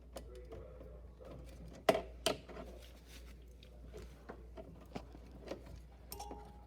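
Wire cutters snipping through two wires, two sharp snaps close together about two seconds in, followed by light clicks and rattles of the tool and wires being handled.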